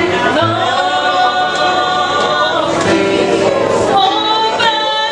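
Gospel singing: several voices holding long notes together, with instruments backing.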